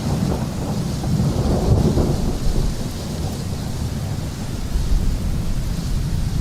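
Thunderstorm: low rolling thunder over steady rain. The rumble swells about two seconds in, then settles back.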